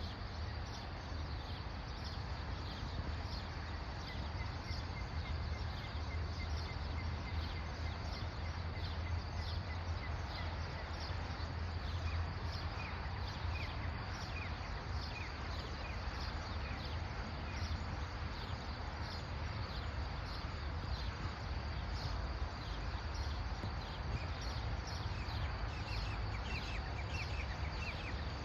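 Rural outdoor ambience: many short, high chirps and ticks from small animals over a steady low rumble.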